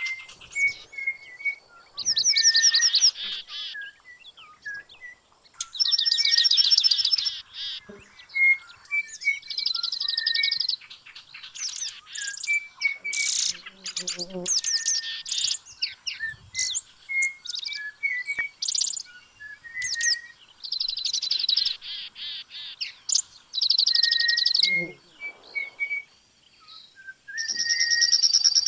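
Birdsong: loud, high trilled phrases of about a second and a half that come again every few seconds, between many short whistled notes and quick chirps.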